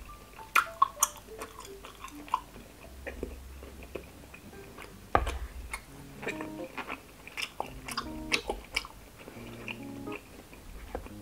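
Close-up chewing and mouth sounds of a person eating fish balls, with many short sharp clicks, over soft background music.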